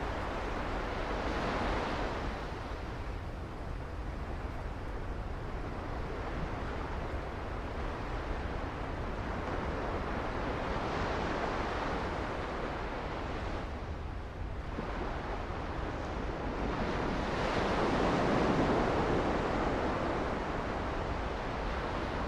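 Sea waves washing onto the beach, swelling and fading in slow surges, the loudest about three-quarters of the way through, over a steady low rumble of wind on the microphone.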